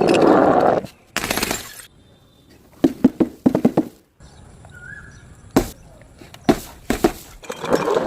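A string of separate crushing and breaking sounds: bursts of crunching and cracking with sharp impacts, some with a glassy shatter, each cut off abruptly before the next.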